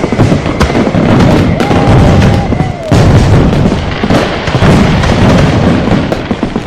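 Dense, continuous barrage of firecracker and fireworks bangs and booms overlapping one another. About a second and a half in, a whistle sounds for about a second and ends with a falling glide.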